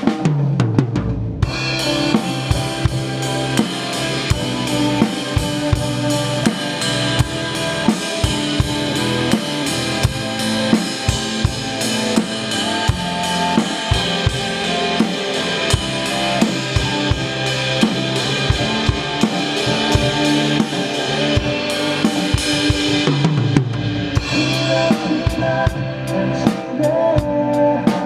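Acoustic drum kit played along with a backing track of a worship song: kick drum, snare and cymbals keeping a steady beat. The cymbal wash comes in about a second and a half in, drops out briefly a little past twenty seconds, then returns.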